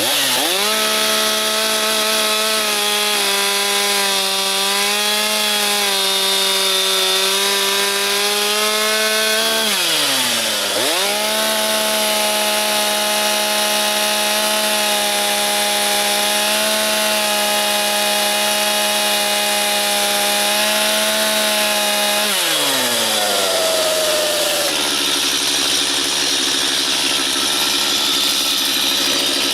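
Stihl chainsaw running at full throttle, cutting through a wooden board. The engine's pitch falls as the throttle is let off about ten seconds in, then climbs back for a second cut. It falls again near the end and settles to idle.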